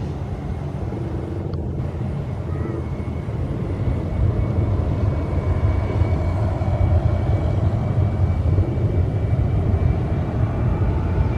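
Jet airliner's engines running with a steady low rumble and a faint high whine, growing a little louder about four seconds in.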